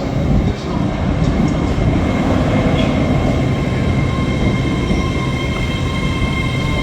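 Passenger train moving along a station platform, its heavy low rumble steady. From about four seconds in, a high steady squeal joins it and grows, typical of a train slowing into the platform.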